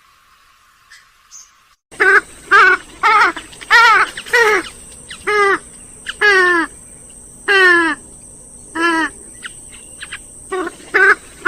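Grey-headed swamphen calling: a run of loud, harsh, nasal notes, each falling in pitch, about two a second, starting about two seconds in. A quieter spell follows, then a quicker string of notes near the end.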